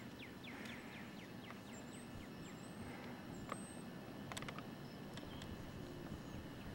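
Faint birdsong: a quick run of short falling notes over the first two seconds and thin, high chirps, over a low rumble of wind on the microphone. A couple of faint clicks come about four seconds in.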